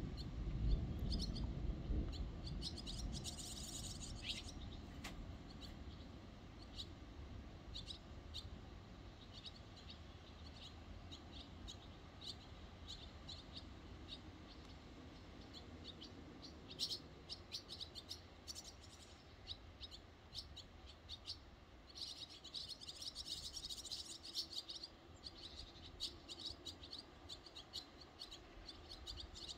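Small birds chirping and calling over and over, with a couple of brief fast trills. A low rumble, most likely the tail of distant thunder, is the loudest sound at the start and fades away over the first few seconds.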